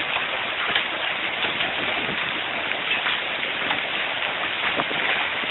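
Heavy hail of quarter- to golf-ball-sized stones falling non-stop, a dense steady clatter of countless small impacts on the ground, roofs and cars, heard through a cell phone microphone.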